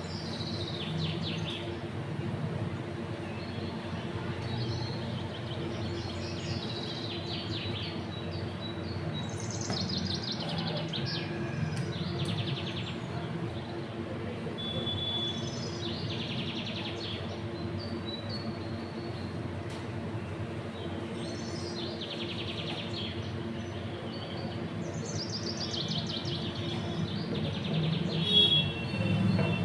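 Birds chirping: short falling runs of high chirps repeat every few seconds over a steady low hum. A brief knock sounds near the end.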